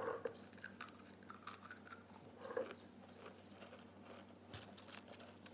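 A Pringles potato crisp being bitten and chewed, a run of short crunches.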